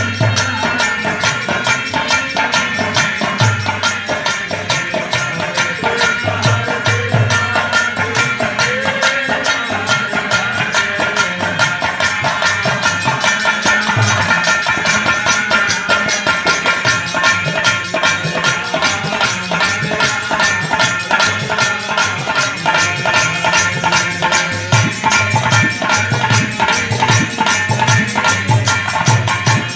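Devotional kirtan music without words: a hand drum beating low strokes under fast, continuous rattling and jingling percussion, with held melodic tones over it.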